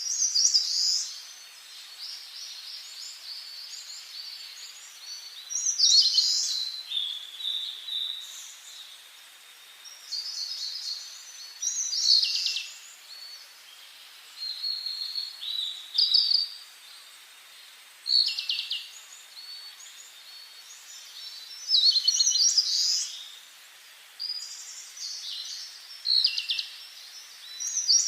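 Songbirds singing: short, bright, high-pitched phrases, some with fast trills, repeating every few seconds over a faint steady hiss.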